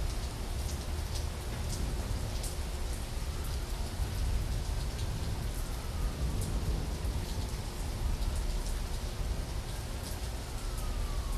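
Steady, heavy rain falling, with a deep low rumble underneath and scattered sharp drop hits.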